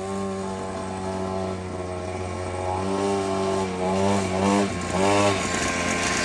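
Dirt bike engine running steadily, then revved in several short throttle blips that rise and fall in pitch through the second half.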